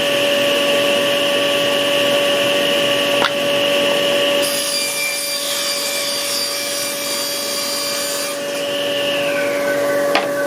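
Power saw running steadily with a constant whine, cutting through a piece of timber from about four seconds in for roughly four seconds, a rip cut along the grain. A few sharp clicks near the end.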